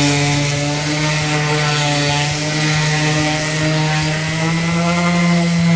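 Electric power sander running steadily on the fiberglass hull repairs, a motor hum with a rough hiss over it. The motor's pitch rises a little about four and a half seconds in.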